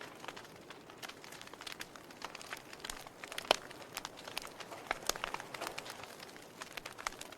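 Wood fire burning in a fireplace: irregular crackles and sharp pops over a soft steady hiss, with one louder pop about three and a half seconds in.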